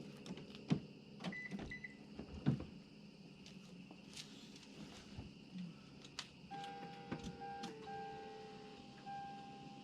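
Quiet clicks and knocks of handling, with two short high beeps about a second and a half in, then from about two-thirds through a steady high electronic tone with brief breaks, just before the engine is started.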